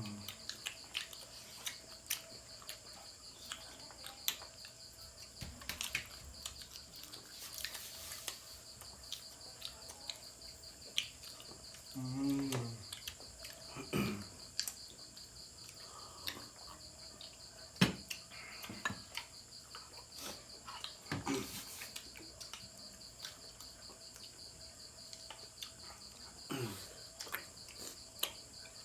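Crickets chirping steadily in the background, with scattered light clicks and taps from eating and utensils, and a brief low vocal sound about twelve seconds in.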